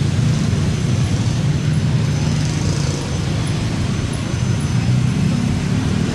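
Steady, loud low engine rumble of a vehicle, with an even hiss over it.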